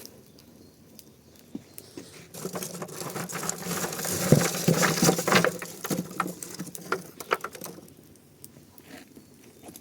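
Campfire crackling with many sharp pops, swelling into dense crackling with a rush of flame from about two seconds in to about seven seconds, then settling back to scattered pops.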